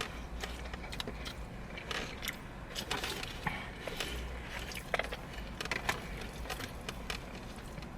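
Close-up eating sounds: chewing, with scattered small clicks and crackles of utensils and food packaging over a low steady hum.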